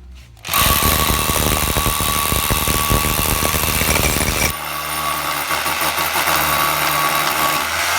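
SDS hammer drill drilling with a cheap competitor's bit: it starts abruptly about half a second in with a loud, fast hammering rattle. About four and a half seconds in the sound changes to a somewhat quieter, steadier run that continues to the end.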